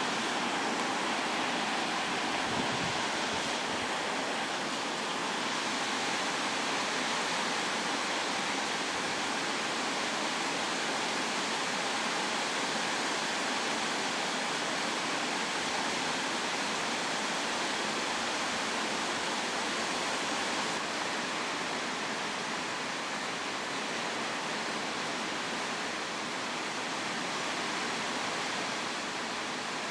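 Heavy rain pouring down in a summer storm: a steady, even hiss that drops a little in level about two-thirds of the way through.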